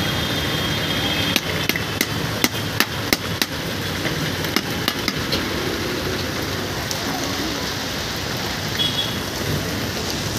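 Steady hiss of rain, with a run of about ten sharp taps, roughly three a second, between about one and five seconds in.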